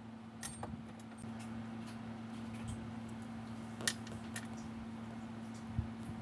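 Several light metallic clicks and clinks of metal objects being handled, the loudest about four seconds in, over a steady low hum.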